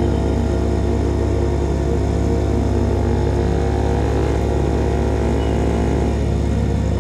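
Exhaust of a CFMOTO Papio SS's small single-cylinder engine, with an aftermarket KO Lightning slip-on, running at a steady cruise with only slight changes in pitch.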